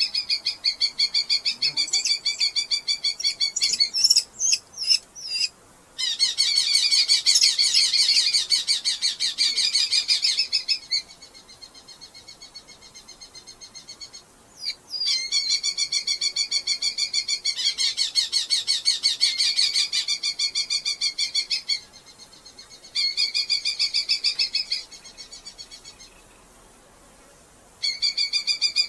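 Red-footed falcons calling: rapid chattering series of sharp, high calls, many a second, in long bouts of several seconds with brief breaks, a fainter stretch around the middle and a short lull near the end.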